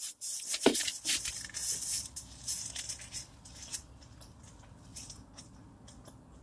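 A person chewing a grilled hot dog close to the microphone: crackly, wet mouth and chewing sounds, busiest in the first two seconds and then fainter and sparser, over a low steady hum.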